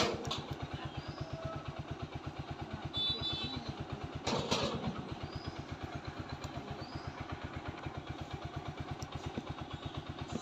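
TVS Apache 4V motorcycle's single-cylinder engine idling with an even, rapid beat. There is a sharp click at the very start and a brief louder burst about four and a half seconds in.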